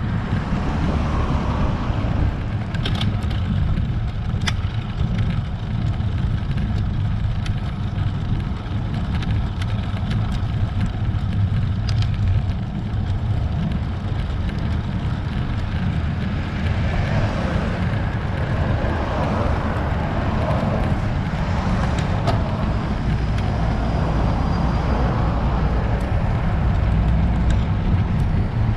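Wind buffeting the microphone of an action camera on a road bike climbing a hill, over steady road noise, with a few sharp clicks scattered through.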